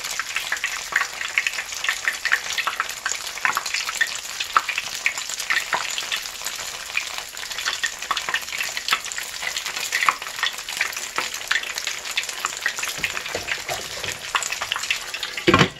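Funnel-cake batter frying in oil heated to about 375°F, a steady sizzle with dense fine crackling. A brief thump near the end.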